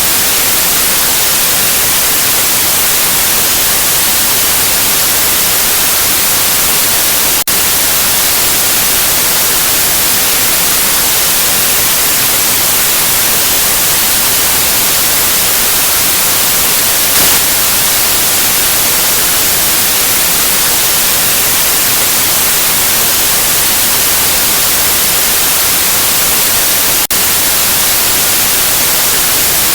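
Steady, loud white-noise hiss, brightest in the high end, broken by two very brief dips: one about seven seconds in and one near the end.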